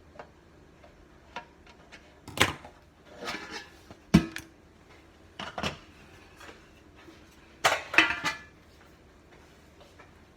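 Stacked rusty metal cake pans being pried apart with a utensil: several sharp metal clanks and scrapes, the loudest about four and eight seconds in, a few ringing briefly.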